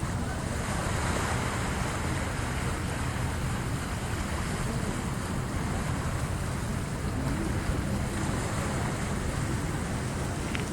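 Incoming sea waves at high tide washing in, a steady surf wash that swells about a second in.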